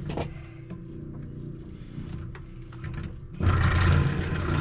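Singer 151W3 industrial walking foot sewing machine: its motor hums steadily with a few light clicks. About three and a half seconds in, the machine stitches a short, loud run for about a second.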